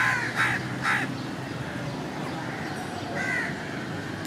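Bird calls: three short calls in quick succession at the start and another about three seconds in, over steady background noise.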